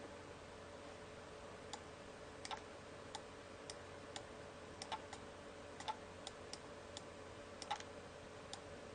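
Faint, irregular clicking of a computer mouse, roughly two clicks a second and sometimes in quick pairs, over a faint steady hum.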